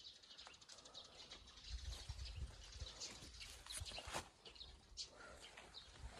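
Faint outdoor ambience of small birds chirping in short calls, with a few soft clicks and low rumbles about two and four seconds in.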